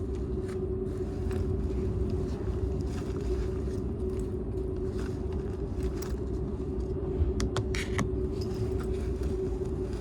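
Cabin noise inside a Seibu 001 series Laview train's unpowered driving trailer car running at speed: a steady low rumble of wheels on rail with a constant hum. A few sharp clicks come about seven to eight seconds in.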